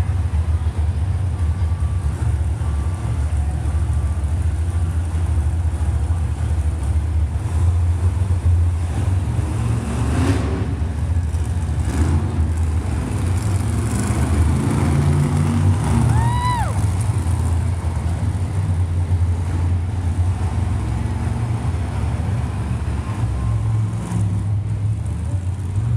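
Monster truck engine running loud and steady during a freestyle run, swelling in the middle as the driver gets on the throttle.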